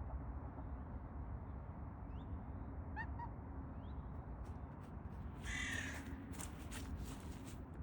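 Bird calls over a steady low rumble: a few short chirps about two to four seconds in, then one harsh call lasting about half a second, the loudest sound, about five and a half seconds in.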